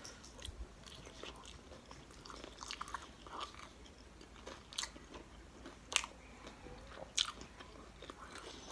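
Close-up chewing of a mouthful of orange shrimp, with small wet mouth clicks and light crunching. A few sharper clicks come about five, six and seven seconds in.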